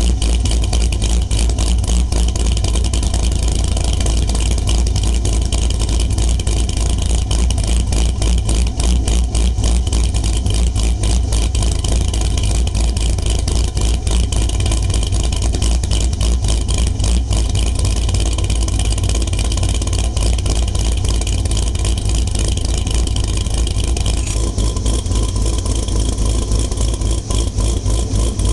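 V8 engine with a Katech Torquer performance camshaft idling steadily through a B&B Fusion exhaust, a continuous deep exhaust pulse.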